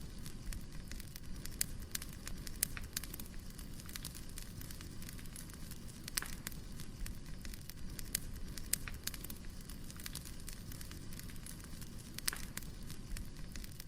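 Wood fire crackling: a steady low rush of flames with irregular sharp pops and snaps of burning firewood.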